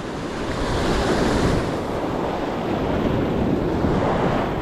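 Ocean surf rushing and washing onto the beach, swelling about a second in and again near the end, with wind buffeting the microphone.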